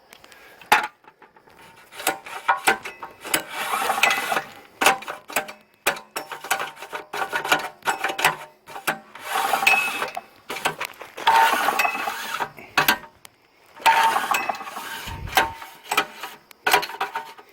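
Recoil pull-start mechanism of a small go-kart engine being worked by hand: bursts of ratcheting and rattling, each about a second long, among scattered sharp clicks. The pull-start is sticky and faulty.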